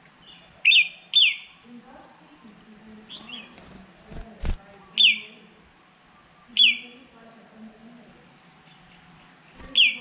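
A songbird calling, giving a sharp down-slurred whistled note six times at irregular intervals over a faint low drone. Two soft low thumps come a little past four seconds in.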